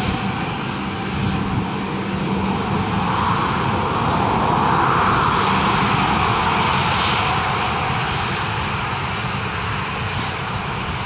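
Fixed-wing aircraft engines running, swelling to a peak about five seconds in and then easing off, with a steady low hum underneath.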